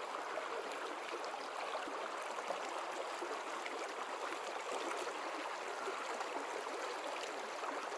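Mountain stream running: a steady rush and gurgle of flowing water over rocks.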